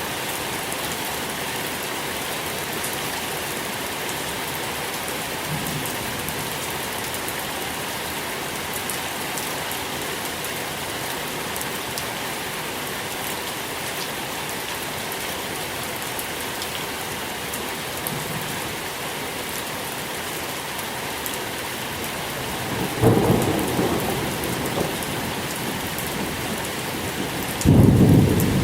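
Steady rain falling, an even hiss of many drops. Near the end, two low rumbles of thunder a few seconds apart, the second louder.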